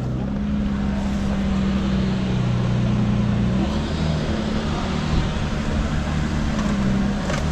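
Car engine running at a steady, fairly constant speed, its pitch shifting slightly now and then.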